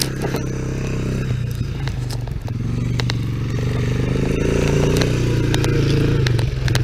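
Three-wheeler ATV engine running, its pitch rising and falling slightly with the throttle, with scattered light clicks.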